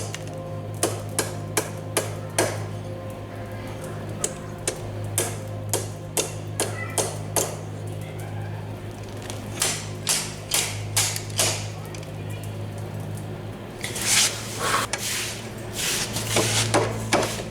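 Hand hammer striking metal on an anvil in irregular series of blows, at times two or three a second, over a steady low hum. A short burst of hissing, scratchy noise comes about 14 seconds in.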